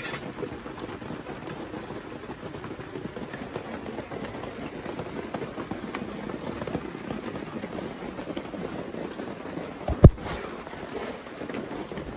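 Steady rain falling on a canvas tent, with a single sharp knock about ten seconds in.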